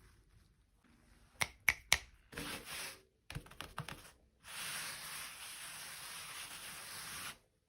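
Handling noises: three sharp clicks close together about a second and a half in, then short bursts of rustling, then a steady scraping hiss lasting about three seconds that cuts off suddenly near the end.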